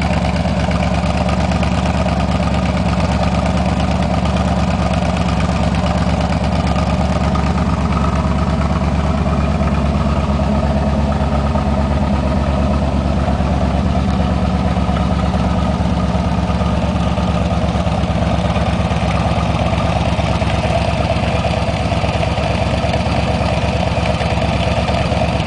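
The 1968 Corvette's 1972 LT-1 350 V8 idling steadily.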